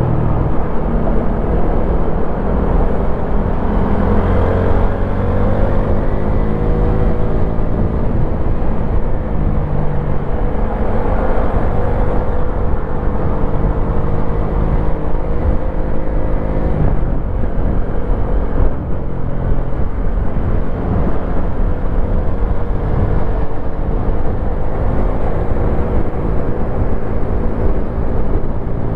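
Wolf Classic 125cc motorcycle engine running under way. Its pitch climbs steadily, then drops back as it shifts gear, with a clear drop about two-thirds of the way through. Heavy wind rumble on the microphone runs underneath.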